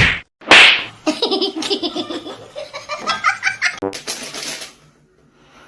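People laughing hard in quick pulsing bursts, following a loud sudden burst of sound about half a second in; the laughter dies away about five seconds in.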